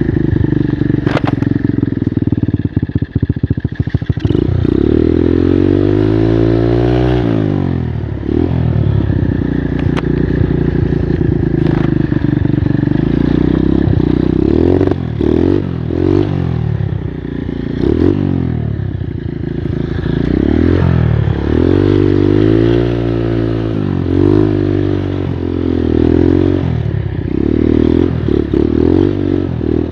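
85cc Skyteam Monkey moped's single-cylinder four-stroke engine running under way, its pitch rising and falling over and over as it is revved up and eased off. A run of clattering knocks comes in the first few seconds. The bike's clutch slips badly.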